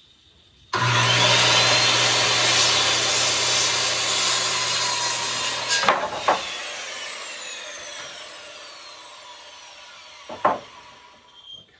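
Corded electric power saw starting up and cutting through a wooden board for about five seconds, then switched off, its blade winding down with a falling whine. Sharp knocks just after the cut and again near the end.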